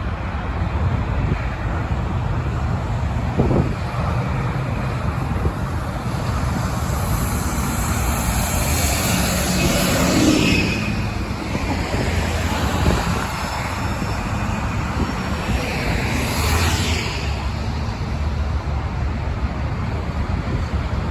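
Road traffic: vehicles passing with tyre noise over a steady low rumble. Two pass-bys stand out, the loudest about ten seconds in and another about sixteen seconds in, each swelling and then fading.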